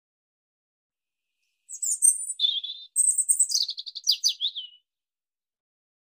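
A bird chirping: a few high whistled notes followed by a quick trill that falls in pitch, lasting about three seconds and starting a little under two seconds in.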